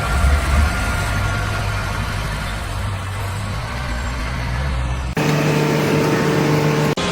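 Low, steady engine rumble of a vehicle or machine. About five seconds in it cuts off abruptly, giving way to a steady hum made of several tones.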